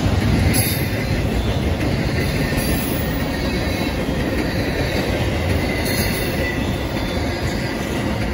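Double-stack intermodal container train rolling past at track side: a steady rumble and rattle of wheels and cars on the rails, with a faint high-pitched whine running through it.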